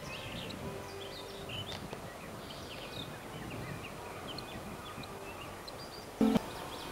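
Small birds chirping over a steady outdoor background hiss, with one brief, loud pitched sound about six seconds in.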